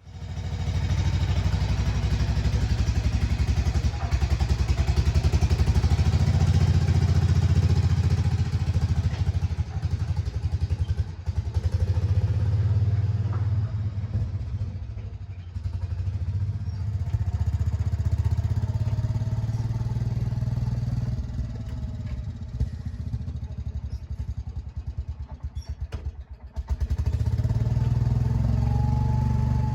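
Garden tractor's small engine running with a fast, even low pulse; it eases off near the end, then comes back up sharply.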